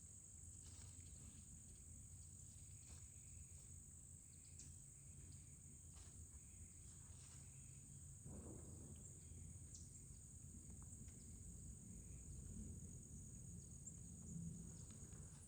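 Near silence outdoors, with a faint, steady high-pitched insect trill and a few faint ticks.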